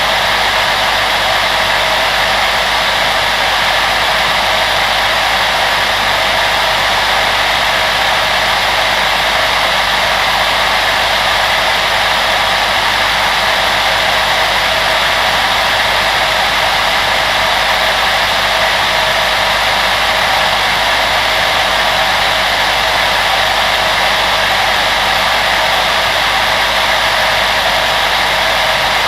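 Electric blower fan running steadily: an even, unbroken rushing whir with a few faint steady hums beneath it.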